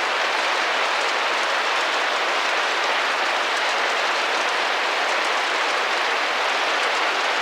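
Steady rain pattering against a window pane: a dense, even hiss of drops with faint fine ticks, unchanging throughout.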